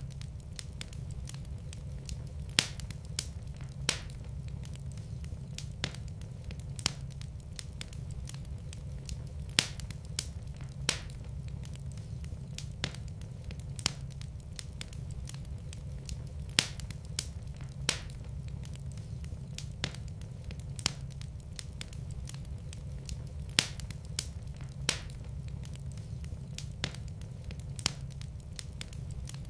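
Wood fire in a fireplace crackling: sharp, irregular pops about once a second over a steady low rumble of burning.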